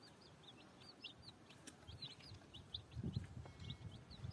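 A group of chicks peeping: many short, high chirps in quick succession, with a few soft low bumps about three seconds in.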